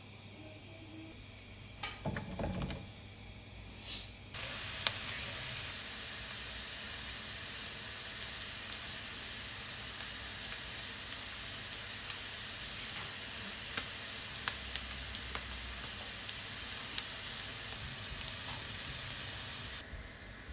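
Potato cubes frying in butter and oil in a nonstick frying pan: a steady sizzle with scattered sharp pops, starting abruptly about four seconds in and cutting off just before the end. Before the sizzle, a few knocks.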